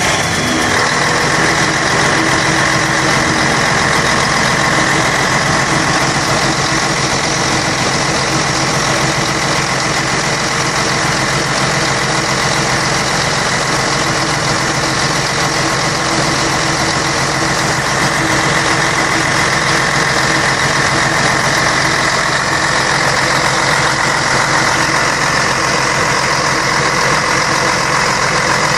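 Scania K113 bus's 11-litre straight-six diesel engine running steadily at an even speed.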